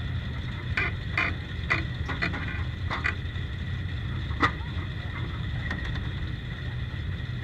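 Onboard sound of a 1932 Ford Super Modified's 300 cubic-inch straight-six engine running as a steady low rumble, with several sharp knocks or rattles in the first half, the loudest about four and a half seconds in.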